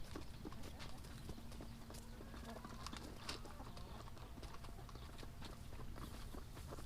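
Faint, irregular tapping of chickens pecking grain from a feed tray.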